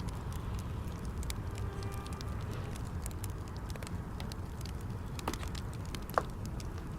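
Fireplace fire crackling, with scattered small snaps over a steady low rumble and one sharp pop about six seconds in.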